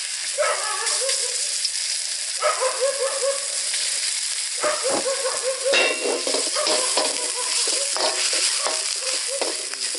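Ginger garlic paste sizzling as it fries in hot butter in a steel wok. From about halfway, a metal ladle stirs it, scraping and knocking against the wok several times.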